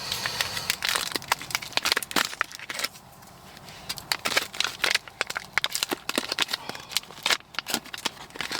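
Plastic MRE ration packaging crinkling and crackling as it is handled and opened, in irregular bursts of clicks, with a brief lull about three seconds in.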